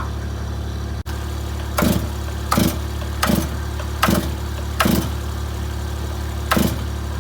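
Stihl MS461 two-stroke chainsaw engine running at idle through a custom billet aluminium muffler cap. From about two seconds in it gives six short, sharp bangs, most of them about 0.7 s apart.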